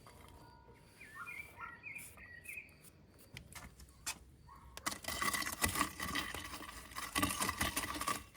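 Birds chirping, then, about five seconds in, a louder stretch of dense clattering and rustling that runs almost to the end.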